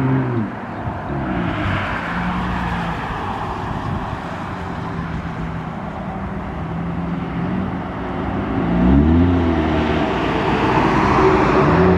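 Straight-piped exhaust of a 2006 Acura TL's V6 running, with its pitch rising and falling a few times as it is revved; the biggest rev comes about nine seconds in.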